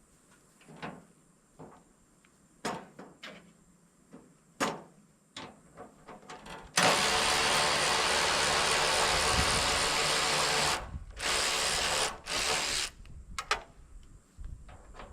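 A handheld power tool running in two bursts, the first about four seconds long and the second shorter, backing out the tractor's hood bolts. Light metal clinks and knocks come before and after as the tool is set on the bolts.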